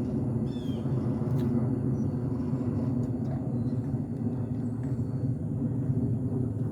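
Norfolk Southern freight train's diesel locomotives running, a steady low rumble.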